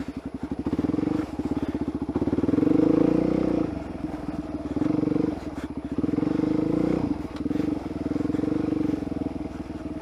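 Suzuki DR-Z400SM's single-cylinder four-stroke engine running at low revs under part throttle, the revs rising and falling in several short surges, the longest about two seconds in.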